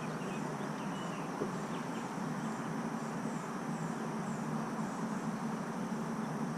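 Steady outdoor background hum on a lake, with faint high chirps repeating about twice a second.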